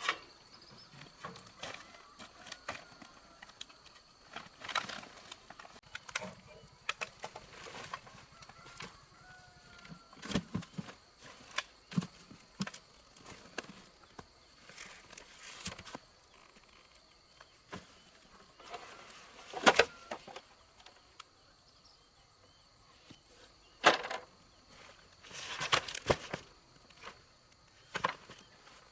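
Scattered knocks, clicks and clatter, loudest about twenty and twenty-four seconds in. A faint steady insect buzz and a few short bird chirps run behind them.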